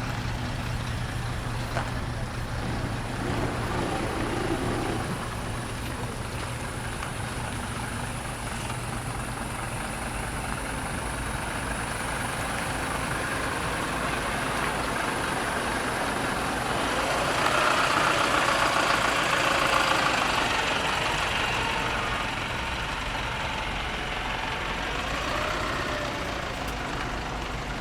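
Large truck engines running, mostly at idle, with one growing louder and passing from about 17 to 22 seconds in.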